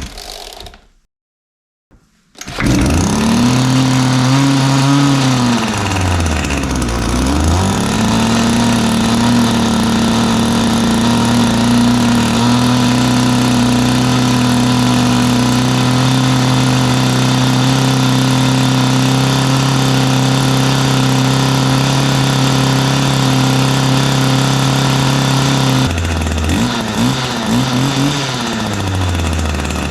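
Vacuum cleaner converted to run on a small two-stroke engine: the engine starts about two seconds in, its speed rises and dips, then it runs loud and steady at one speed, and near the end it slows and wavers.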